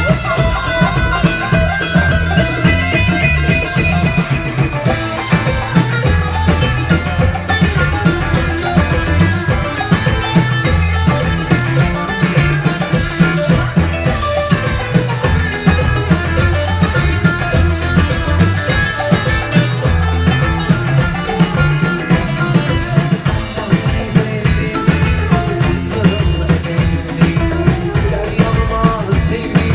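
Live Turkish psychedelic folk-rock band playing loud with a steady drum-kit beat, bass and guitar.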